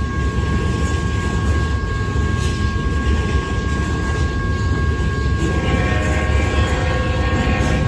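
Loaded welded-rail cars of a BNSF rail train rolling past at steady speed, giving a continuous low rumble of wheels on track. Two thin steady tones ring above the rumble, and a further pitched tone joins in about five and a half seconds in.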